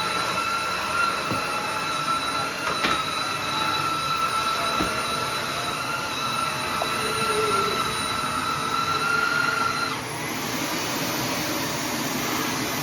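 Cordless wet-and-dry vacuum floor washer running with a steady high whine as it is pushed over spilled water and bits of food, with a few sharp clicks. About ten seconds in the whine changes and a thin high tone rises.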